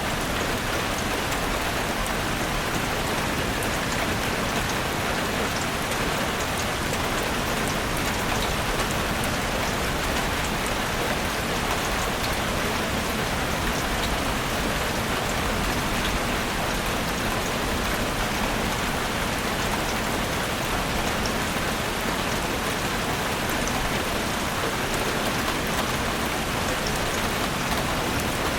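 Heavy rain falling steadily on a surface, an even hiss with a scatter of individual drop ticks.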